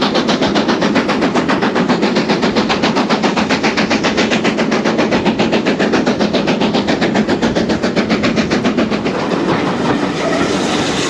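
Heritage-line train under way, a loud steady rumble with a fast, even beat of about eight pulses a second that softens near the end.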